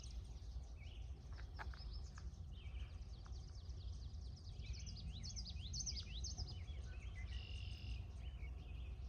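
Faint outdoor ambience of birds chirping, with a run of quick, high, falling chirps in the middle, over a low steady rumble.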